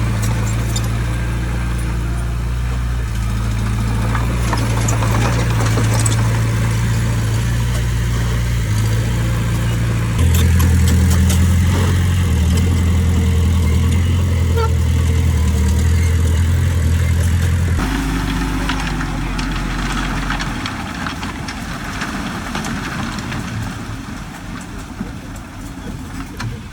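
Diesel engine of heavy earthmoving machinery running. It grows louder and changes pitch about ten seconds in, then drops abruptly and fades toward the end, with scattered clanks and rattles throughout.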